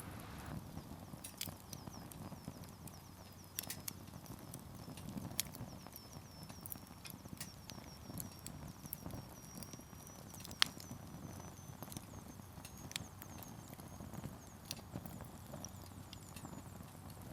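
Wood campfire burning: the low rush of the flames with irregular sharp crackles and pops from the firewood, one louder pop about ten seconds in. A faint high whistle slowly rises in pitch behind it.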